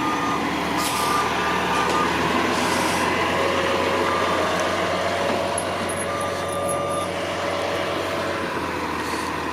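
Crane truck's diesel engine running steadily, with a few long electronic warning beeps sounding over it at intervals.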